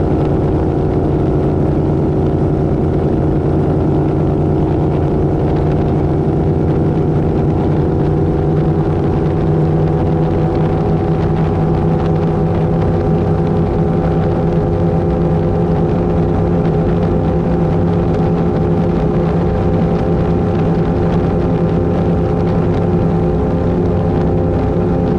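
Twin V8 engines of an Avanti 33 powerboat running steadily under way, their pitch rising slightly about a third of the way in and then holding.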